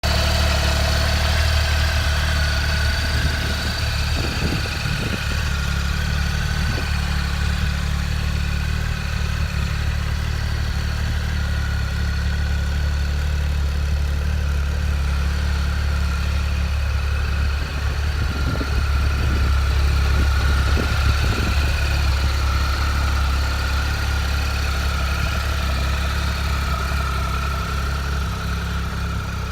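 Triumph Tiger Explorer XRX's 1215 cc three-cylinder engine idling steadily.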